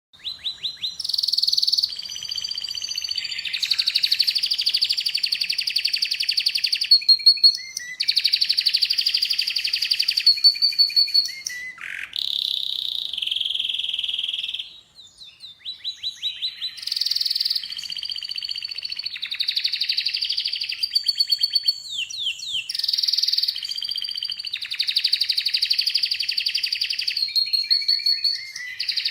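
Canary singing continuously: long, rapid rolling trills of repeated high notes, broken up by short whistled glides and chirps, with a brief lull about halfway through.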